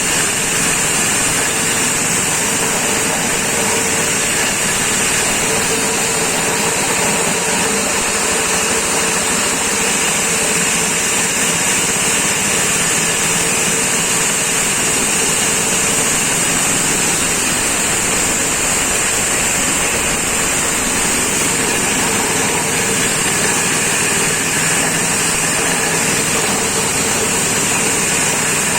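Grass chopper machine working as a corn-cob grinding mill, running steadily at a constant loud level with a steady high hiss.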